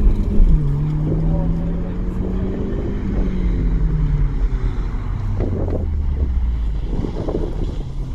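Car engine driven hard through a slalom course: its note drops about half a second in, rises again, then falls off near the middle as the driver lifts and accelerates between the cones.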